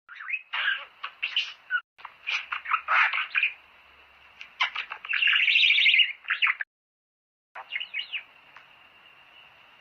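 Budgerigars chattering and warbling in quick chirps and trills, with two brief silent breaks, about two seconds in and around seven seconds.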